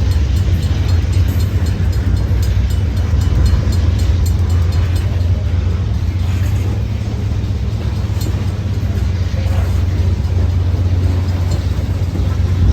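Freight train passing close by: a steady low rumble of locomotives and wheels on the rails, with faint scattered clicks.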